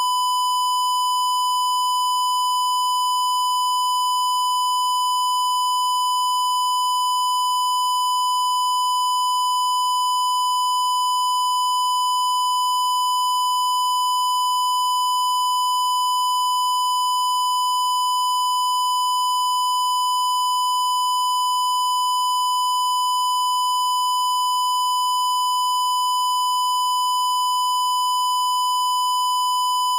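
Steady, unbroken electronic tone at about 1 kHz, like a long test-tone beep, with fainter higher overtones that give it a slightly buzzy edge.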